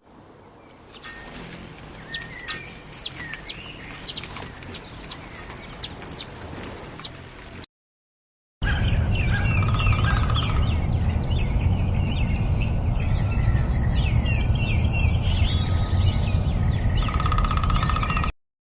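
Bird calls from two separate recordings with a short silent gap between them. In the first, a steady high note is held with quick chirps over it. In the second, assorted chirps and short trills sound over a loud rumbling background noise.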